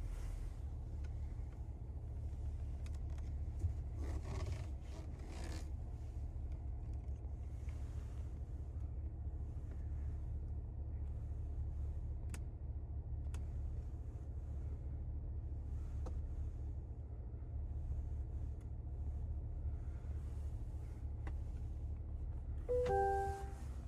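Cabin noise inside a 2024 Cadillac Escalade ESV on the move: a steady low rumble with scattered light clicks, and a short electronic chime near the end.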